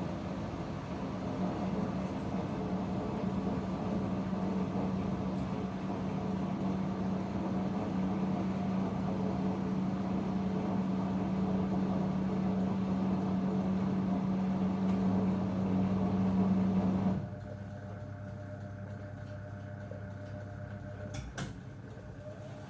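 Zanussi DL22 washing machine turning its drum during a 90 °C boil wash, a steady motor hum that stops about 17 seconds in. A quieter, lower hum follows as the drum pauses, with a short click near the end.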